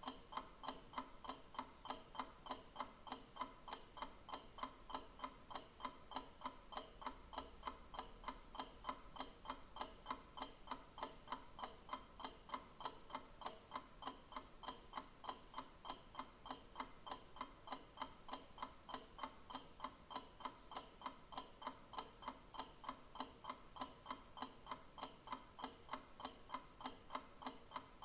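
Clock ticking, quick and perfectly even, about two to three ticks a second.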